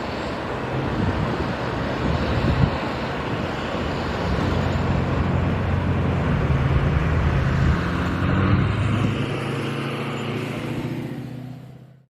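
CSX freight train rolling past: a steady rumble and wheel noise from the rails, with a low diesel engine drone through the middle. The sound fades out quickly near the end.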